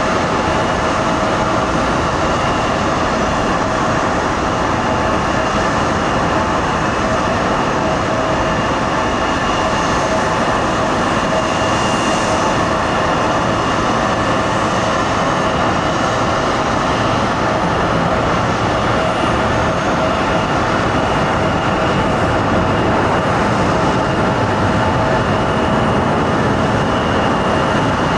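Jet airliner engines running at constant power: a loud, even rush with steady whining tones on top, holding without rising or falling.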